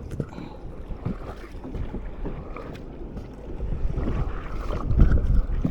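Wind buffeting the microphone over water lapping around a small boat, with a rough low rumble that swells near the end.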